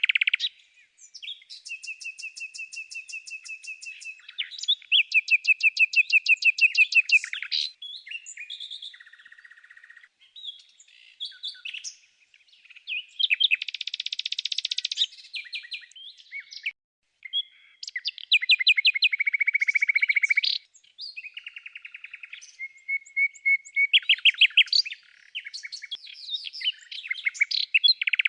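Songbirds singing: a series of rapid trilled phrases of many quick notes, alternating with steady whistled notes and short pauses.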